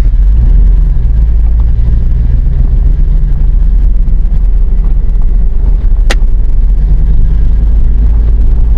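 2000 GMC pickup truck's engine and exhaust running loud on the drive, a steady low rumble. A single sharp click about six seconds in.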